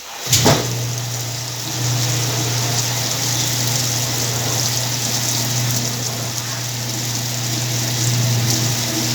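Whirlpool washing machine starting up abruptly, then running with a steady low hum over a rushing, water-like noise.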